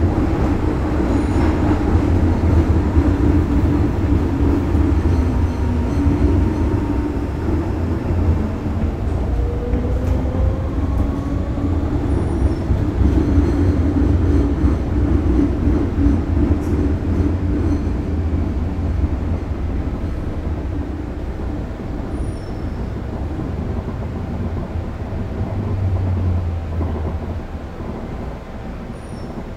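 Steady low rumble of a vehicle in motion, with a few faint steady tones above it, fading near the end.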